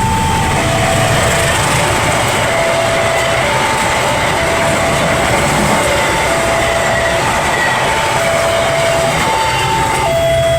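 Passenger train passing at a level crossing, its wheels clattering on the rails in the rain, while the crossing's two-tone electronic alarm alternates between a higher and a lower tone about once a second.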